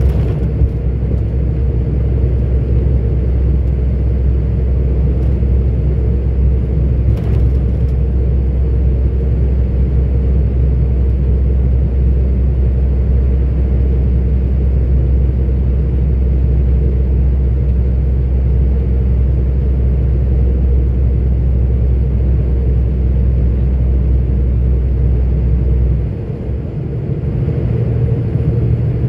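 A 44-ton articulated truck's diesel engine and road noise heard from inside the cab as a steady low drone. Near the end the drone dips briefly and picks up again on a different note.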